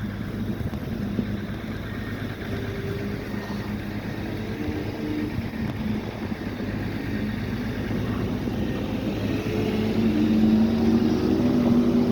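Engine of a snow-clearing tractor loader running, its pitch shifting up and down as it works and getting louder toward the end.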